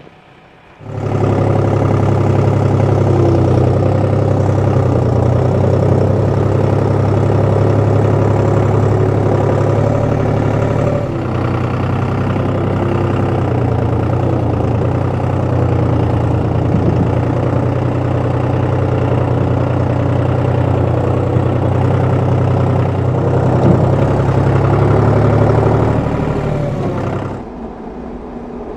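An engine or motor running steadily with a low hum. It begins abruptly about a second in and stops shortly before the end.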